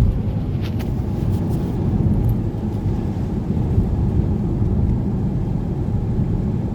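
Steady low rumble of a car driving, with road and engine noise heard from inside the cabin, and a few faint clicks in the first two seconds.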